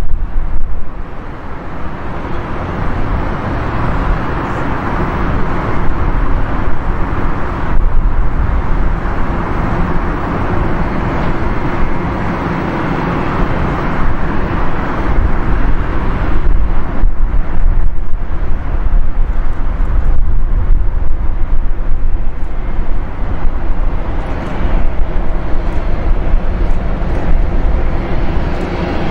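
Jet airliner engines on the runway, a loud, steady rushing noise that swells, eases off partway through and builds again.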